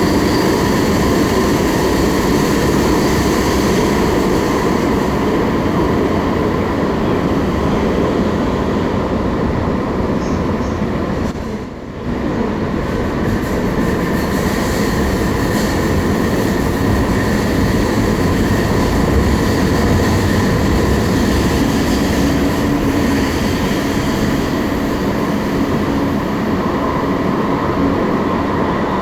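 Alstom Citadis Spirit light-rail train running through a tunnel, heard from inside the car: a steady rumble of wheels on rail with a faint steady whine, dipping briefly in level about twelve seconds in.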